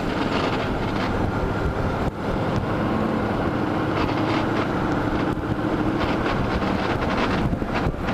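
Wind buffeting the microphone over the steady sound of a running vehicle engine.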